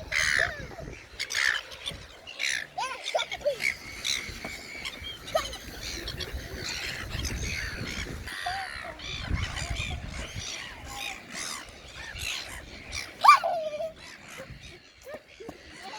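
A flock of birds crowding in to be fed, giving many short, overlapping squawks and harsh calls, with one louder squawk that falls in pitch near the end.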